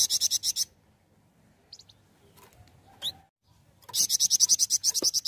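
Flamboyan songbird singing two fast, loud trills of high repeated notes, about a dozen notes a second: one at the start and one in the last second and a half, with a single short rising chirp between them.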